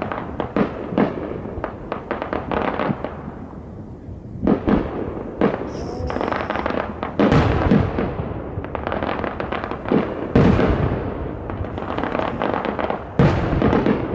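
Fireworks display going off: a rapid run of bangs and crackle, with several louder booms spaced a few seconds apart.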